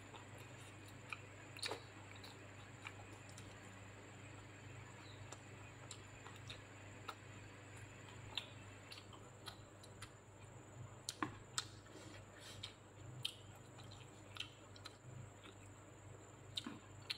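Faint chewing with scattered short, wet mouth clicks and smacks, as food is eaten by hand. The clicks come more often in the second half.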